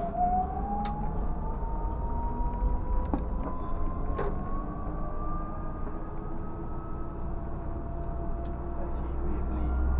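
Scania K124 bus on the move: steady low engine and road rumble with a whine that climbs slowly in pitch as the bus gathers speed, and a few sharp clicks or knocks.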